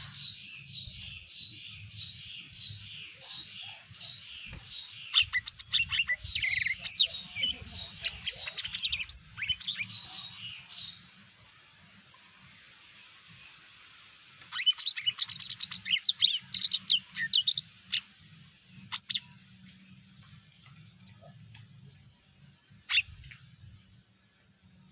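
Cucak ijo (green leafbird) singing: a long run of quick, evenly repeated high notes, then after a pause a burst of fast chattering notes, and a couple of single sharp calls near the end. A faint low hum sits underneath.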